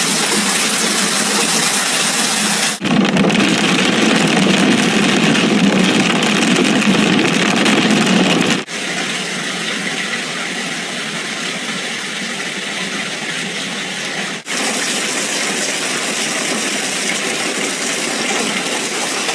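Heavy hail and rain pouring down as a loud, steady, dense hiss, in several clips that cut off abruptly about every three to six seconds.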